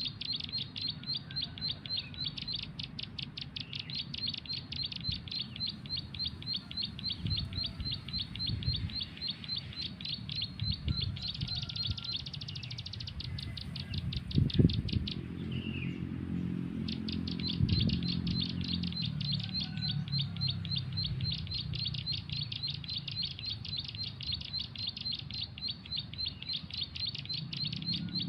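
A bird chirping in a rapid, even run of high notes, about five a second, breaking off for a couple of seconds midway. A low rumble sits underneath and swells in the middle.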